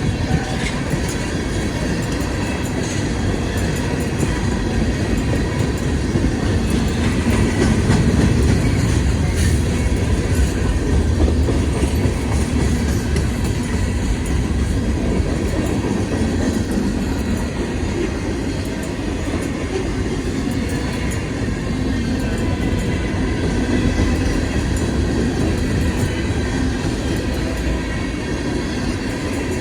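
A long CSX manifest freight train's cars rolling past at close range: a steady, loud rolling noise of steel wheels on rail, with faint clicks as the wheels cross rail joints.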